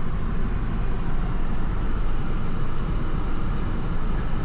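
Steady road and engine rumble heard from inside a moving vehicle's cabin.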